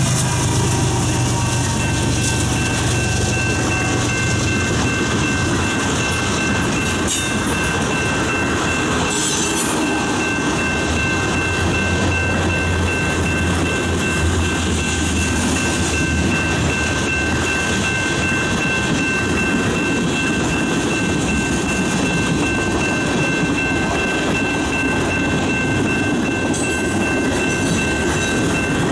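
Freight train rolling through a level crossing: steady wheel-on-rail rolling noise from passing tank cars and hoppers, with the crossing's warning bell sounding as a steady high tone underneath. A CN diesel locomotive's engine hums low for the first few seconds as it goes by.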